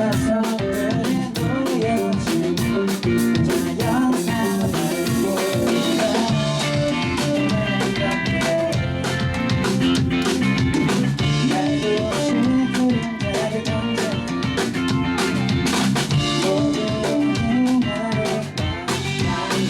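Indie rock band playing live: drum kit keeping a steady beat with rimshots under strummed electric guitars.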